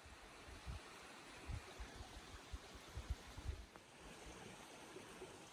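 Faint steady rush of a creek flowing past, with several short low thumps in the first few seconds.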